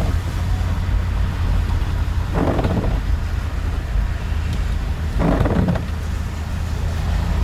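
Car cabin noise from driving slowly on a wet, hail-covered road: a steady low rumble of engine and tyres, with a brief swish about every three seconds.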